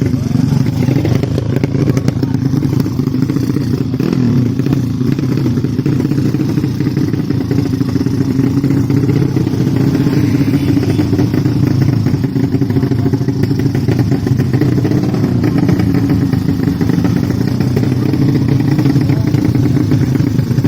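Motorcycle engines running steadily at a constant speed, without big revs.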